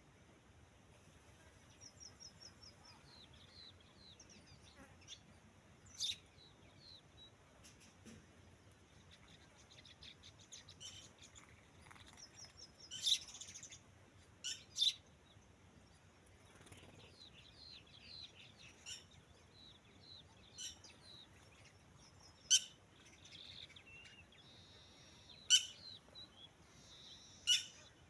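Birds chirping and calling, with a few sharp, louder calls standing out every few seconds.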